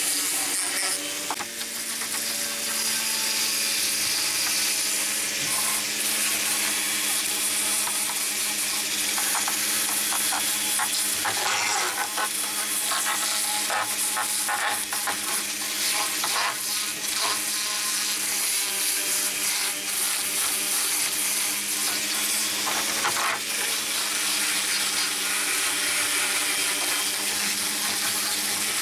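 A small power tool's motor running steadily with a continuous hissing scrape over it, with uneven scratchy strokes.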